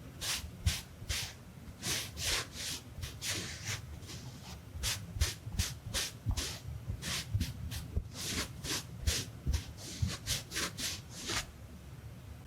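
A makeup drawing tool stroked quickly across the camera lens close to the microphone: short scratchy swishes, about three a second, which stop about a second before the end.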